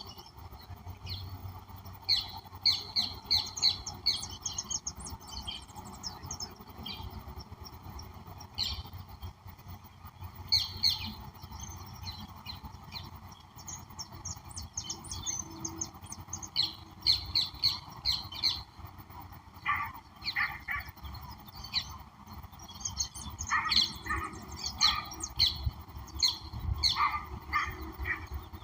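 Wild birds singing and calling together: quick runs of high chirping notes come again and again, and lower calls join in during the second half.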